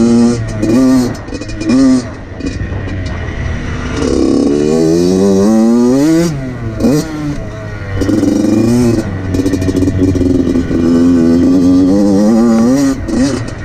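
2014 Yamaha YZ85's two-stroke engine revving up and down under riding: a few short blips, a long climb through the revs that drops away sharply about six seconds in, then held high with a wobbling pitch for several seconds.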